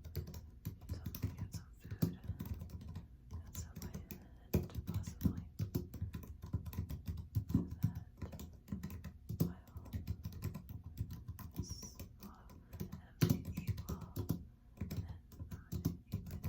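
Typing on a computer keyboard: a fast, uneven run of keystroke clicks, with a few harder strokes.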